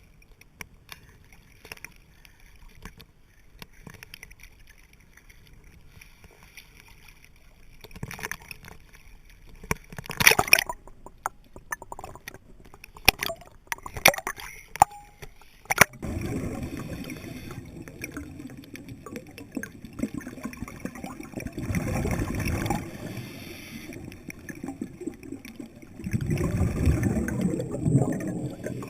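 Underwater water noise with scattered sharp clicks, then a steady low gurgling with two louder surges of bubbling, typical of a scuba diver's exhaled bubbles from the regulator.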